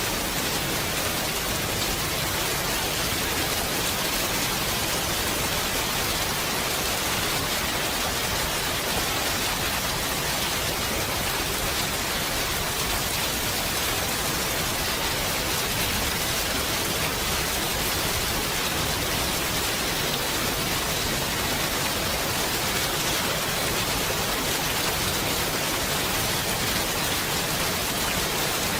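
Steady rain falling, an even unbroken hiss with no distinct drops or thunder standing out.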